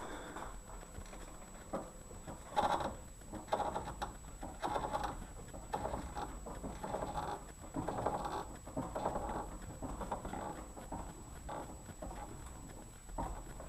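Front suspension strut of a Mitsubishi Lancer X creaking as the steering wheel is turned, in a series of short, irregular scratchy creaks that thin out near the end.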